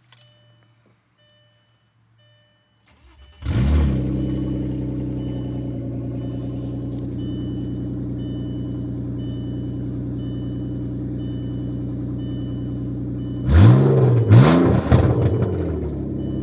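1998 Audi A4 2.8 quattro's V6 cranked and started cold about three seconds in, flaring up and then settling into a loud, steady idle; near the end it is revved several times in quick blips and drops back to idle. The loud exhaust note is from an exhaust leak, which the owner places at the front of the engine.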